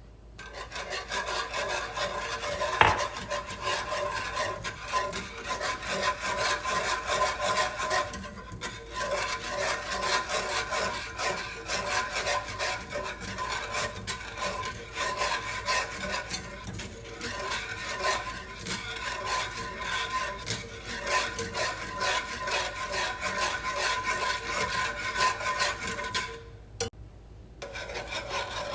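Whisk beating and scraping rapidly around a pan of country gravy as milk is whisked in to thicken it, with one sharper clack about three seconds in. The whisking breaks off briefly about eight seconds in and again near the end.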